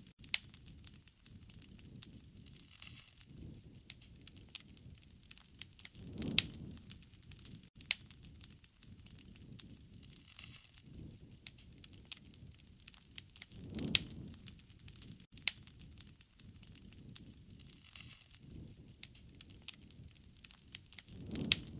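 Wood fire crackling, with frequent sharp pops over a soft low rush that swells about every seven to eight seconds.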